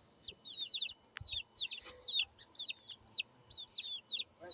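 Young chicks peeping: a constant run of short, high chirps, each falling in pitch, several a second from more than one bird. A brief faint knock about two seconds in.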